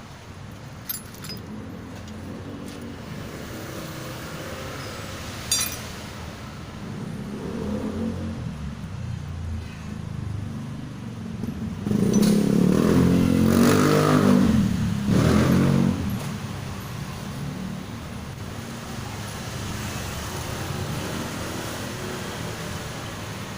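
A motor vehicle engine runs in the background, swelling louder with its pitch rising and falling for about four seconds midway. A couple of sharp metallic clicks come earlier.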